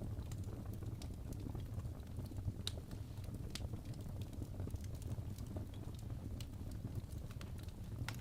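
Crackling fireplace: scattered sharp crackles and pops over a low, steady rumble of burning wood.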